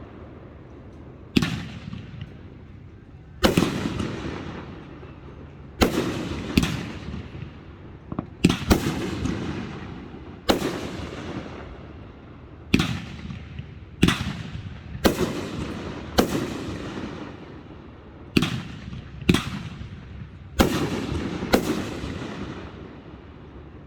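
Fireworks display, with about fifteen sharp bangs going off one after another every one to two seconds, each trailing off in a rumble.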